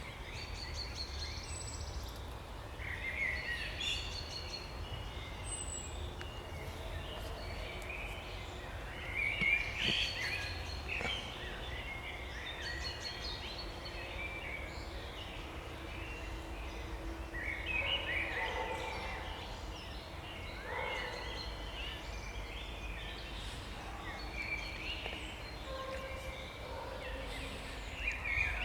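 Spring birdsong: several songbirds singing and calling at once, with many short overlapping chirps and warbled phrases, over a steady low rumble.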